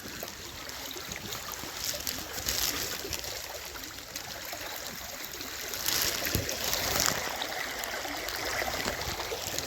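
Rain-swollen creek water running steadily, with louder sloshing about two and a half seconds in and again around six to seven seconds in as boots wade through the current.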